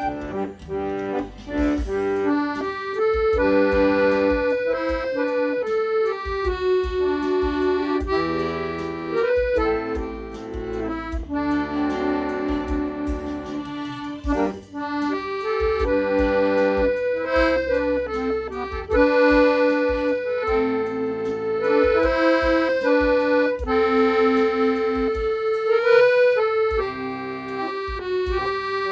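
Accordion playing a slow melody with chords over a backing track with bass and a steady beat.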